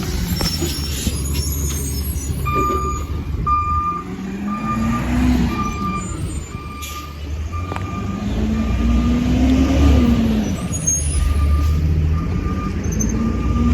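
Compost collection truck with its engine rising and falling in pitch several times, and its reversing alarm beeping steadily, about two beeps a second, starting a couple of seconds in.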